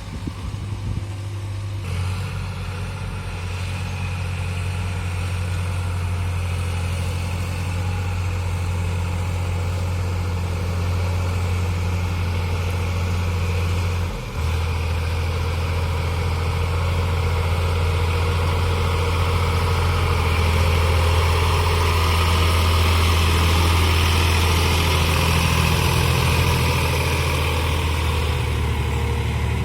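Heavy diesel engine running steadily at low speed, with a brief drop in level about halfway through.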